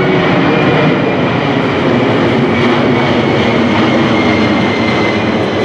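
The C-5M Super Galaxy's four General Electric CF6-80C2 turbofan engines running at power as the jet flies past: a steady, loud jet roar with a high fan whine that slowly falls in pitch.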